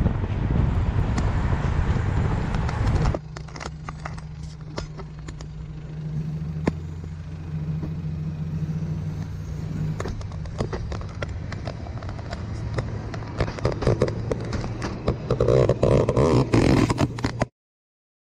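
Loud road and wind noise from a car driving alongside a narrow-gauge diesel train for the first three seconds. Then comes a quieter, steady low hum of the diesel locomotive's engine, with scattered clicks and rattles from the passing carriages, growing louder near the end before cutting off.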